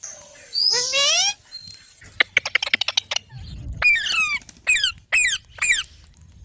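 Pet green parrot calling: a drawn-out rising squawk about half a second in, a quick run of clicking sounds, then four short squawks that each fall in pitch.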